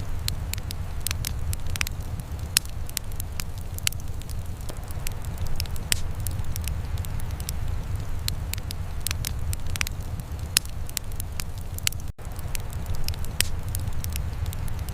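Wood fire in a fireplace crackling, with sharp, irregular pops over a steady low rumble. The sound drops out for a split second about twelve seconds in.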